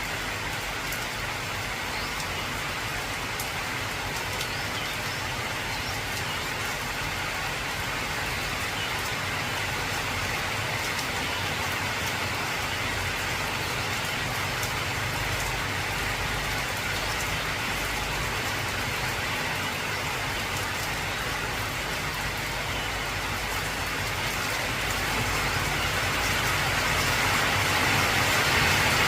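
Heavy rain falling on an old corrugated zinc roof: a steady dense hiss with scattered drop ticks, growing louder over the last few seconds.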